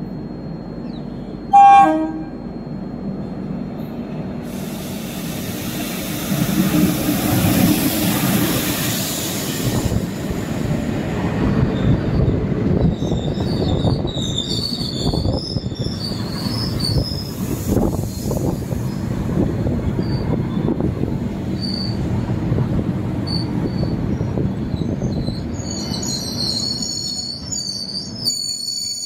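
A short train horn blast about two seconds in, then an Indian Railways train running past: steady rumbling wheel-and-rail noise, with high-pitched wheel squeal from about halfway through.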